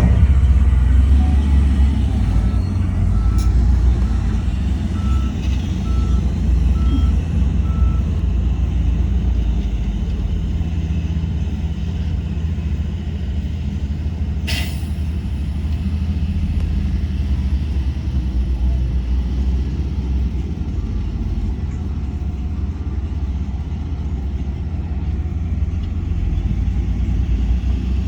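Heavy diesel earthmoving machinery running with a steady low rumble. A reversing alarm beeps about half a dozen times a few seconds in, and there is one brief sharp hiss about halfway through.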